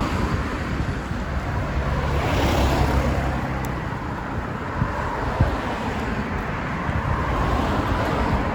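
Wind buffeting the microphone, with a steady low engine hum from passing traffic for a few seconds near the start.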